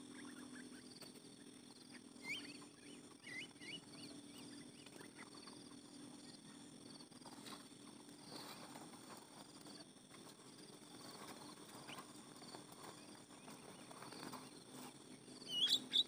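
Small birds calling: a few short chirps about two to four seconds in, then a louder rising whistle near the end, over a steady high buzz of insects.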